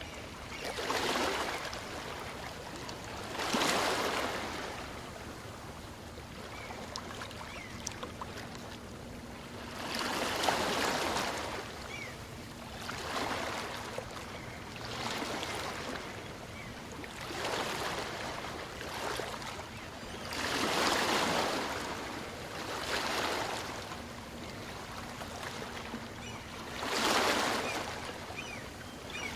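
Small waves breaking and washing onto a beach, each one a rush of surf that swells and fades, several in turn every few seconds over a steady wash of water.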